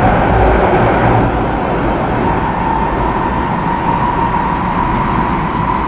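Taiwan High Speed Rail 700T train running at speed through a tunnel, heard from inside the passenger cabin: a steady rumble, with a steady whine that grows clearer about two seconds in.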